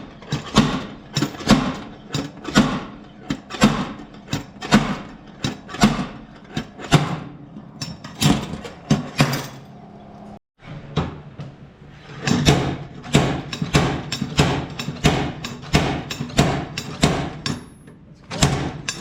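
Repeated hammer blows on sheet metal, about two strikes a second, with a short break about halfway through, as crumpled body metal is beaten and worked back into shape.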